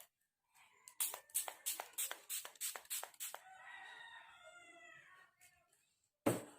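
A rooster crowing once, a long call of about two seconds. Just before it comes a quick run of sharp clicks or taps, and a short loud knock comes near the end.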